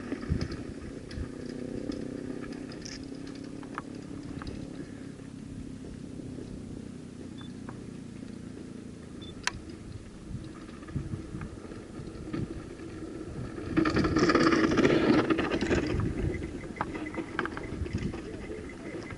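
Mountain bike rolling along a dirt trail: tyre noise and the bike rattling over bumps, with scattered knocks. A louder rush of noise lasts a couple of seconds about two-thirds of the way through.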